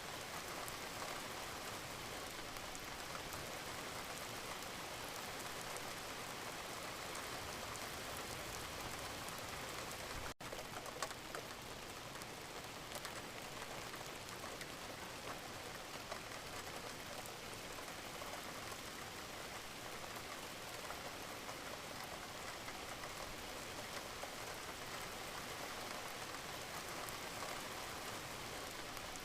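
Wood fire crackling in a fireplace: a dense, steady hiss with scattered sharper pops, and a momentary dropout about ten seconds in.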